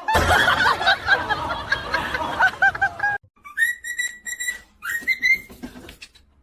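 A busy mix of short high chirps over background noise that cuts off abruptly about three seconds in, followed by a series of clear whistled notes, several starting with a short upward slide.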